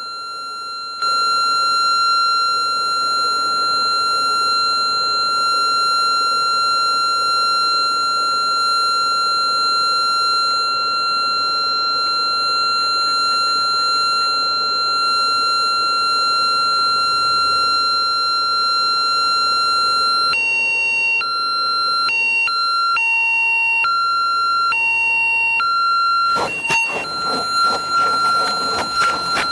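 A light aircraft's landing gear warning horn sounds a steady high tone, the alert that the gear is still up for landing. About two-thirds of the way in it breaks into an on-off alternation with a lower tone. Near the end a loud rush of noise with rattling comes in over it.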